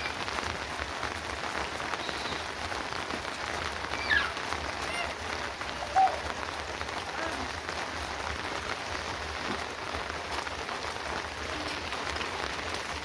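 Steady rain falling. A brief falling chirp comes about four seconds in, and a short, louder sound about six seconds in.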